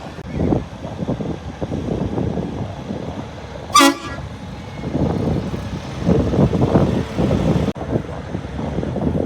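Trucks running past with steady engine and road noise that swells and fades. About four seconds in, a horn gives one short toot.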